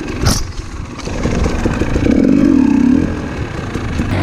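300 cc two-stroke enduro dirt bike engine running on the trail, with a rise in revs about two seconds in that lasts about a second. A sharp knock just after the start.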